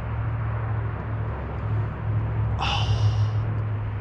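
Steady low rumble of distant road traffic, with a short high hiss lasting under a second about two and a half seconds in.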